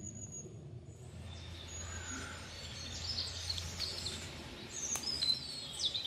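Small birds chirping and calling over a steady outdoor background hiss with a low rumble; the chirps grow busier about halfway through.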